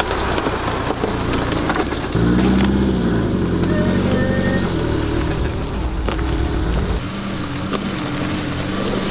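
Subaru Forester flat-four engines running at low revs while crawling over a rough dirt trail, the pitch rising and falling with the throttle. Scattered clicks and cracks come from sticks under the tyres.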